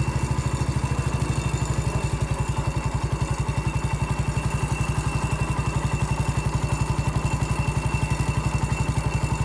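Small engine of an MF 14 garden-tractor dozer running steadily at a constant speed, with an even, rapid beat of about ten pulses a second.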